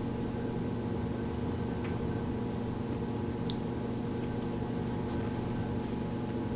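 Steady low electrical hum of room tone, with a couple of faint light clicks about two and three and a half seconds in.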